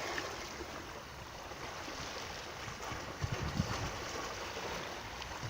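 Flowing water making a steady rushing noise, with some irregular low bumps from about three seconds in.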